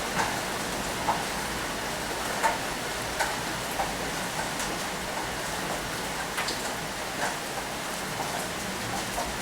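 Heavy rain falling steadily, with irregular sharp taps and drips scattered through it.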